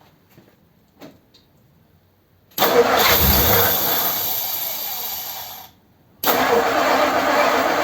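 Starter cranking a 1957 Ford Thunderbird's Y-block V8 in two bursts: one of about three seconds beginning a couple of seconds in, a short pause, then a second burst near the end. It is cranked to pump fuel into a low carburettor float bowl.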